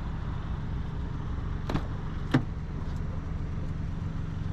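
An engine running steadily at a low hum, with two sharp clicks about a second apart near the middle.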